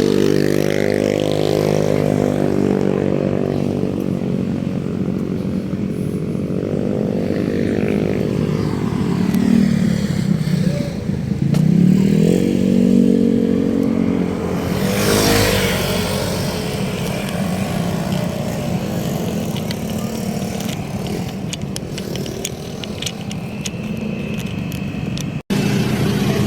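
Small motor engines passing close by, their pitch rising and falling several times as they speed up and slow down, with a loud rushing surge about fifteen seconds in.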